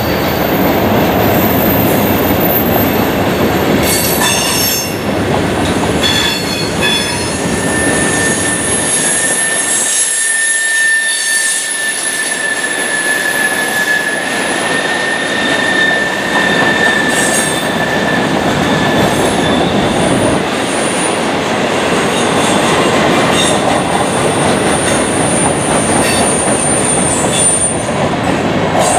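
Freight train cars rolling past on steel rails, a steady loud rumble with wheels squealing in a long high tone through the middle and again near the end, and a few clanks early in.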